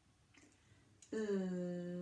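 Only speech: a woman's voice holding a long, steady 'lll' sound, starting about a second in, the drawn-out start of the word 'leg'. Before it, quiet room tone.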